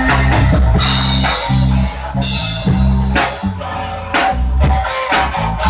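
A band playing an instrumental passage: drum kit with repeated cymbal crashes over a bass line and guitar, with no singing.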